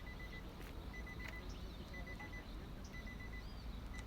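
Electronic alarm beeping: quick runs of four short high beeps, repeating about once a second, over a low steady rumble.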